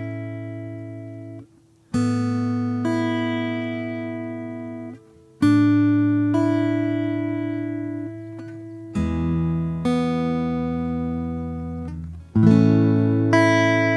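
Solo acoustic guitar playing slow, gently struck chords, each left to ring out and fade. The chords come in pairs about every three and a half seconds, with brief pauses between.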